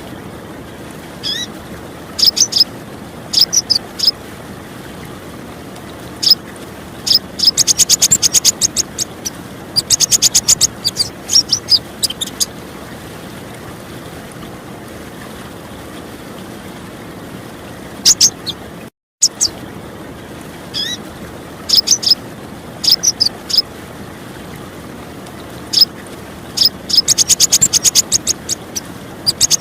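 Female sunbird (konin) calling: sharp high chips and bursts of rapid chattering trills, repeated, over a steady background of flowing water. The sound cuts out for a moment a little past the middle and the same call sequence starts again.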